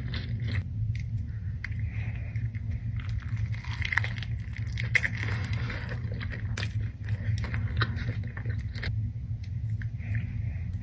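Close-miked eating: wet chewing with crunchy crackles and smacks, over a steady low hum.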